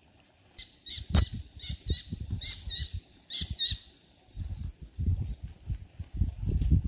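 A small bird chirping in quick short notes for the first few seconds, over irregular low bumps and rustles close to the microphone, with one sharp click about a second in.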